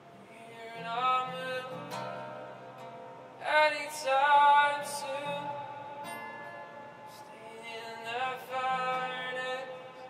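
Live worship music: a voice sings three long, sustained phrases over a steady instrumental backing. The middle phrase, about halfway through, is the loudest.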